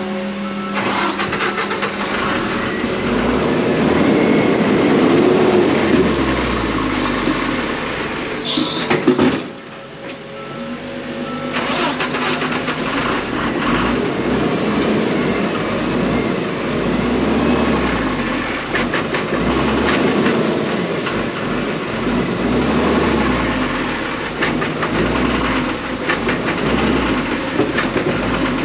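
Heavy diesel machinery running under load: a bulldozer and a dump truck working. There is a short hiss about eight seconds in and a brief lull just after, then the engines pick up again.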